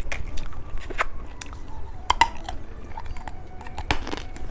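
Someone chewing candy, with scattered small sharp clicks and crackles at an irregular pace.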